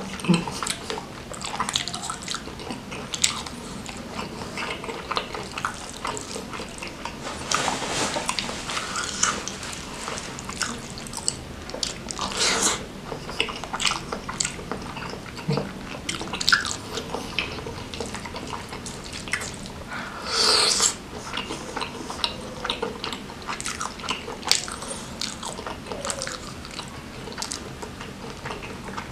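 Close-miked eating of chicken satay and rice in gulai curry sauce: biting meat off skewers, chewing and wet mouth smacks, with two louder noisy bursts about twelve and twenty seconds in.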